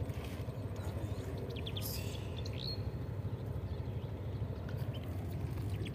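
A few short bird chirps clustered about two seconds in, over a steady low rumble of open-water ambience.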